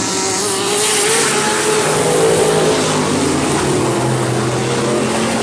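A pack of race trucks' engines at full throttle on the green flag, several overlapping engine notes rising and falling as the field accelerates.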